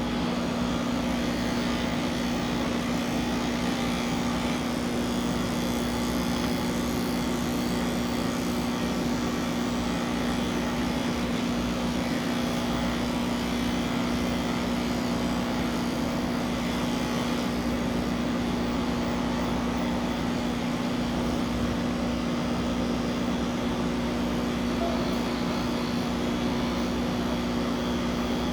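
Electric pet hair clippers running steadily with a constant, even hum.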